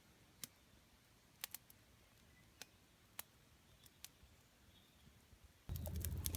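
Small wood campfire crackling: a few isolated sharp pops and snaps spread out over several seconds, then a steady low rushing noise starts near the end.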